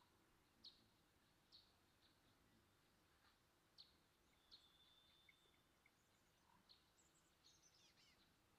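Near silence with faint bird chirps in the background: short high chirps every second or so and a quick run of falling chirps near the end.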